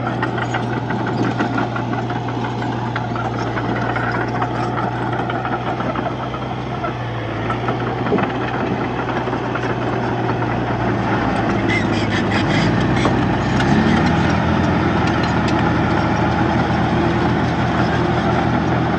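Komatsu D31-P bulldozer's diesel engine running steadily, with bursts of rapid metallic clicking. About two-thirds of the way in, the engine rises in pitch and gets louder.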